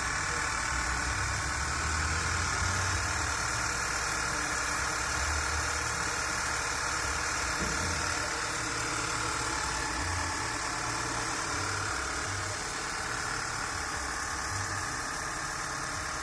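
Engine idling steadily during a test run, easing slightly lower about three-quarters of the way through.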